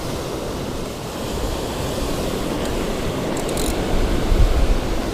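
Ocean surf washing onto the beach as a steady hiss, with wind rumbling on the microphone, strongest about four seconds in.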